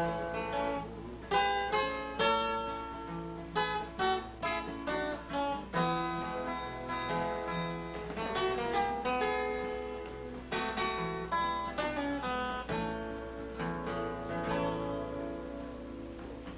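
Acoustic guitar picking an instrumental break to close a country song, single picked notes and strums, the last notes ringing and fading out near the end.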